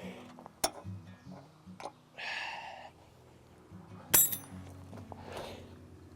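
Metal hand tools clinking on a steel sawmill frame: a sharp click about half a second in, a short scraping rasp around two seconds, and a loud ringing metal-on-metal clink about four seconds in.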